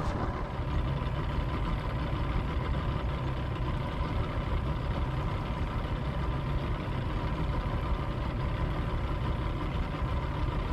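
Boat motor idling steadily with a low rumble, left running to recharge the boat's battery.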